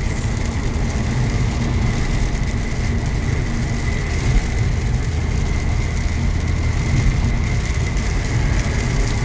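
Steady in-cabin drive noise of a Volkswagen Golf GTI on the move: a low engine and road drone under an even tyre hiss on a wet road, with a faint steady whine, no change in speed.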